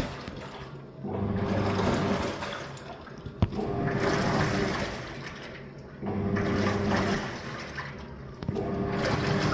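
Living & Co 5.5 kg top-load washing machine agitating in its wash cycle: the motor turns the wash plate in strokes of about two seconds, each a motor hum with water sloshing, separated by short pauses, four strokes in all. A single sharp click sounds just before the second stroke.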